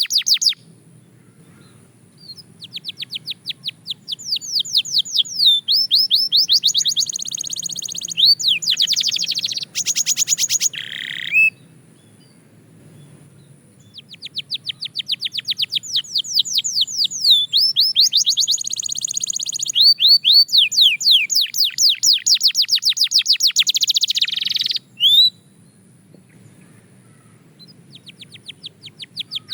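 Belgian canary singing in fast trills of rapidly repeated high notes, in two long phrases of about ten seconds each with pauses of a few seconds between, and a new phrase starting near the end.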